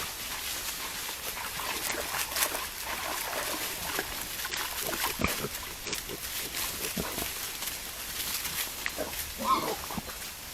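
Wild boars grunting: a run of short, scattered grunts, with a louder call near the end.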